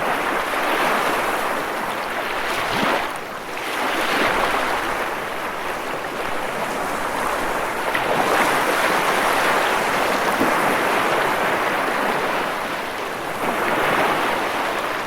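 Ocean waves breaking, a continuous wash of surf that swells and eases every few seconds, with four or so surges.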